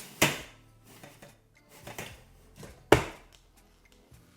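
Food containers knocked and set down on a table as they are swapped around: a few sharp knocks, one just after the start and a loud one about three seconds in, with lighter taps between.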